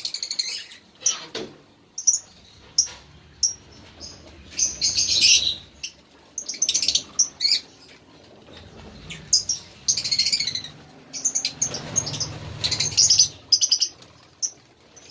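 A bird calling: bursts of short, high chirps and rapid chattering phrases, repeated every second or two.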